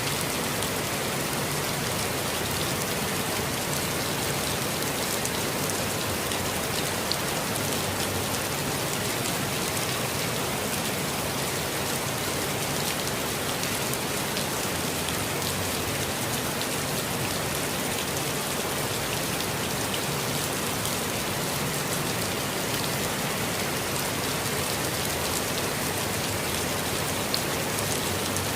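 Steady rain falling, a dense even patter of raindrops with fine drop ticks throughout.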